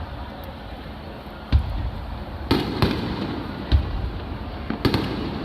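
Aerial firework shells bursting: about five bangs a second or so apart, some deep booms and some sharper cracks followed by crackling.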